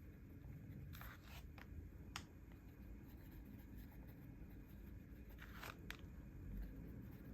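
Faint handling of paper and stationery: two short scraping rustles, about a second in and again near the end, each followed by a light tick.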